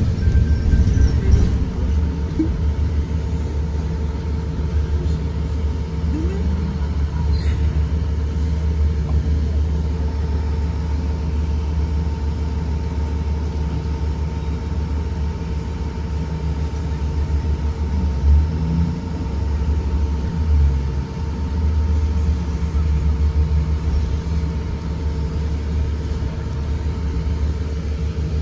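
2023 Blue Bird Vision school bus driving: a steady low rumble with a steady whine running through it.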